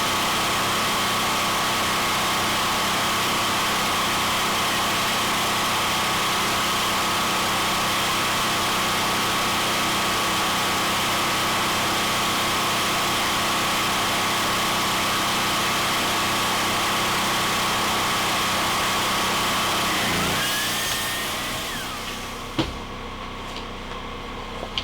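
A motor-driven machine running steadily with a constant whine, then switched off about 20 seconds in and winding down with falling pitch. A few sharp knocks follow near the end.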